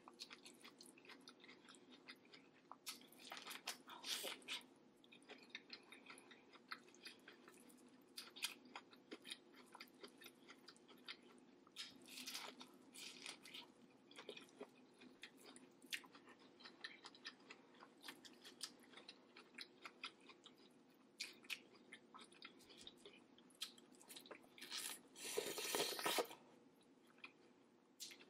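Close-up mouth sounds of a person eating a sauce-coated seafood boil: soft chewing and biting with many small wet clicks and crackles, and a louder, longer noise lasting about a second near the end.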